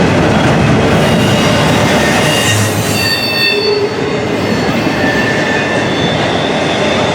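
Intermodal freight train's cars rolling past with a steady rumble of wheels on rail, and high wheel squeal coming and going over it, loudest about three seconds in.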